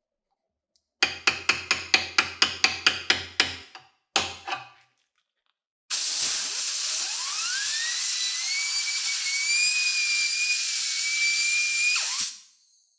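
A small electric motor spins up with a rising whine, runs steadily for about six seconds and is switched off. Before it comes a quick run of about a dozen sharp taps, about four a second, then two more.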